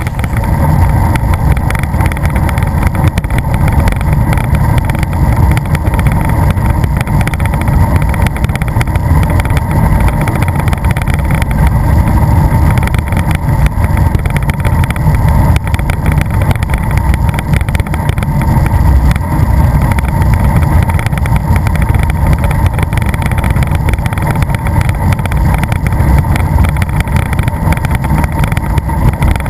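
Alfa Romeo pedal car rolling along, its wheels making a loud, steady rumble on the ground.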